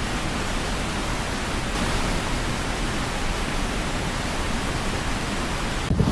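Steady, dense rushing noise of water, with an abrupt break and change near the end.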